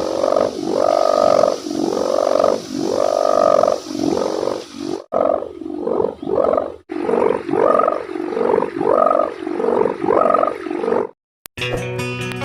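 Sendaren kite hummer with a thick packing-strap ribbon, humming as it catches the wind: a deep pitched drone that swells and fades about once a second, then in quicker pulses after about five seconds. It cuts off near the end, and guitar music starts.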